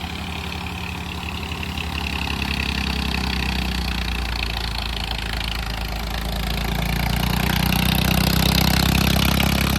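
Tractor diesel engine running steadily, getting louder about two seconds in and again after about six seconds as it takes on more throttle or load.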